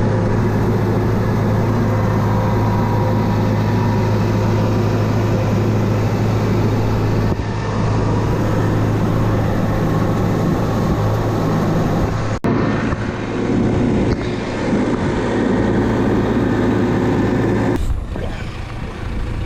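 Farm tractor engine running steadily close by, a constant low hum under a broad mechanical noise. There is a single sharp click about twelve seconds in, and the sound gets quieter near the end.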